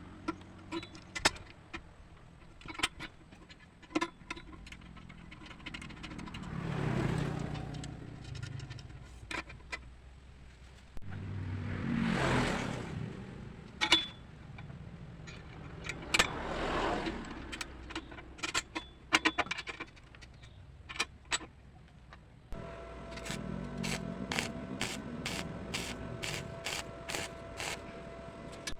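Workshop handling sounds: scattered clicks, knocks and scrapes, with three rushing sounds that swell and fade. Near the end a steady hum starts, with rapid even ticking over it.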